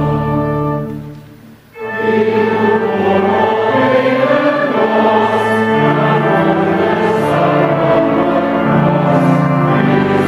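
Choir singing sustained chords. The music fades out about a second in, then a new choral passage starts right after.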